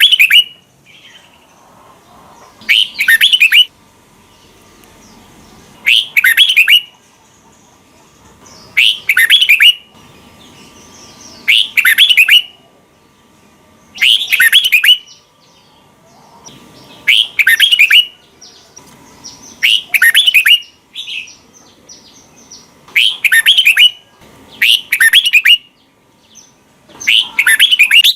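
Red-whiskered bulbul singing short, loud warbled phrases, repeated about every three seconds, with a longer run of rapid notes near the end.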